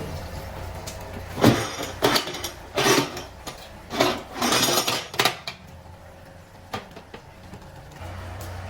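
Metal striking metal: a run of about six sharp clanks with brief ringing over a low workshop hum, then one faint clink a little later.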